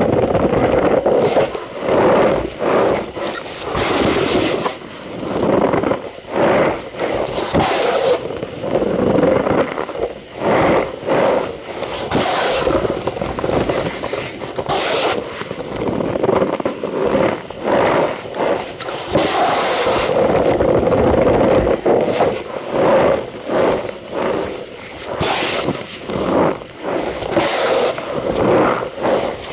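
Cornstarch powder being squeezed and crushed, making a dense run of irregular squeaky crunches.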